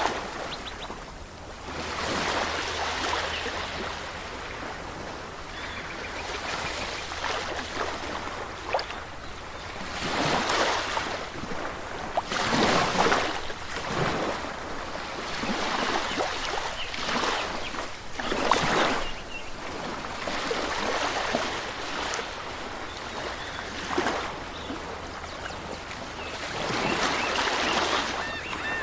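Moving water washing in repeated swells a couple of seconds apart, with a few faint high chirps now and then.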